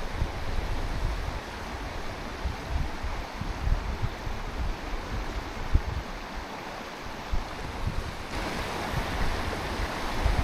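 Mountain stream water rushing steadily, with gusts of wind rumbling on the microphone. The water sound grows brighter and louder about eight seconds in.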